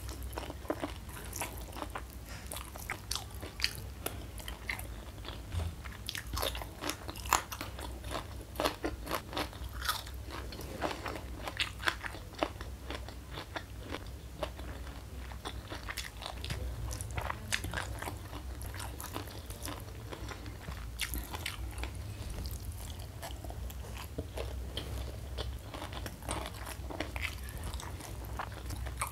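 Close-miked chewing and crunching of crispy battered fried mushroom, a steady run of sharp crunches that comes thickest in two stretches, over a low steady hum.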